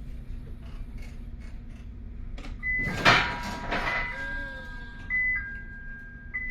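Forklift running with a steady low engine hum. About halfway in, an electronic two-note warning chime starts, a high note then a lower one, repeating. A loud noisy burst lasting about a second comes just as the chime begins.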